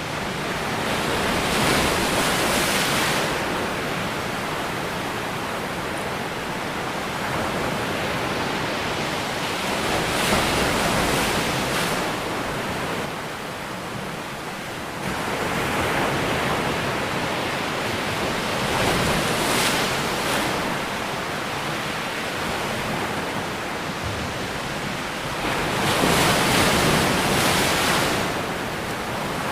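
Ocean waves breaking and washing on a shore: a continuous rushing hiss that swells louder about every eight or nine seconds as each wave breaks, four times.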